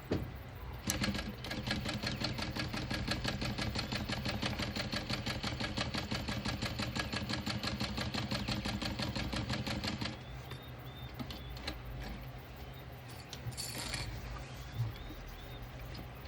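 Juki DU-1181N industrial walking-foot sewing machine stitching at a steady speed for about nine seconds, then stopping. A short rustle follows near the end.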